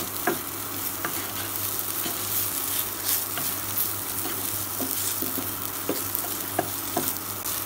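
Okra and potato pieces sizzling in oil in a nonstick pan while a wooden spatula stirs them on medium heat, with scattered scrapes and taps of the spatula against the pan.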